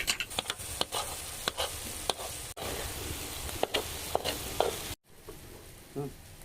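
Quick light scrapes and clicks over a steady hiss, stopping at a brief drop-out about five seconds in, after which it is quieter.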